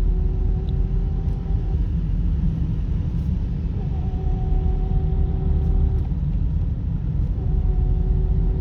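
Steady low rumble of a running vehicle, with a faint steady tone that comes and goes three times.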